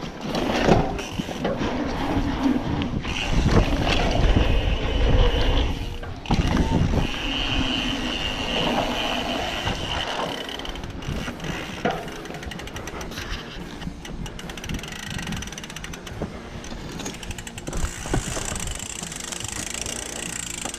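Mountain bike being ridden on a dirt trail: tyres rolling over the ground and the rear hub's freewheel ratcheting as it coasts, with a low rumble in the first few seconds and a run of fast clicks later on.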